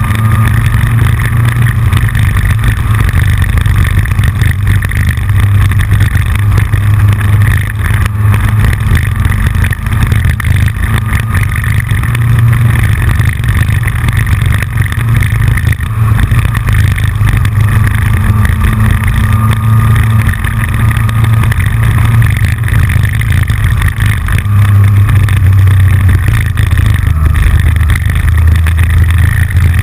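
Yamaha FJR1300's inline-four engine running at road speed, its low drone rising and falling a little with the throttle, mixed with wind rush, heard through a camera mounted on the front fairing. The loosely mounted camera adds a clicking rattle.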